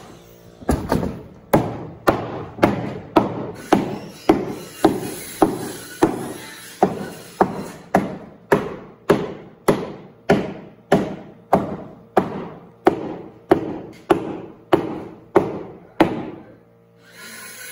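Evenly spaced heavy thumps, about two a second, each ringing out briefly, stopping about sixteen seconds in.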